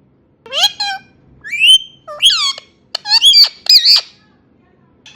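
Indian ringneck parrot giving a quick run of short, harsh calls, each sliding up or down in pitch. The calls start about half a second in and stop about a second before the end.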